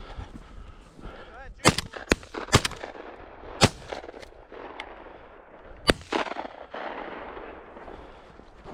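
A quick string of shotgun shots, about five sharp reports between a second and a half and six seconds in, each with a short echo.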